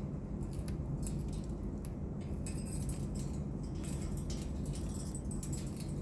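Light metallic clinking and scratching in quick, irregular ticks, over a steady low hum.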